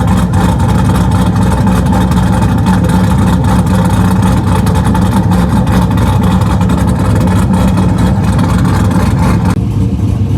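Straight-piped, cammed Chevrolet Camaro SS V8 running loud and steady with no mufflers, a choppy, pulsing cammed idle.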